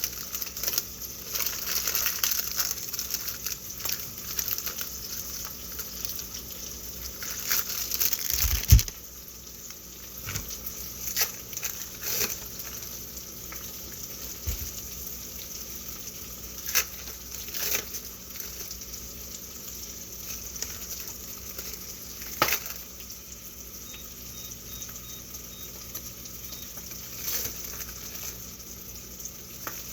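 Food sizzling in a frying pan, a steady hiss, with scattered clicks and knocks; one low thump about nine seconds in is the loudest sound.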